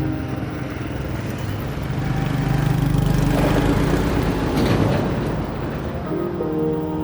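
Motorbike engine running steadily while riding on the road, with wind and road noise that swells to its loudest in the middle.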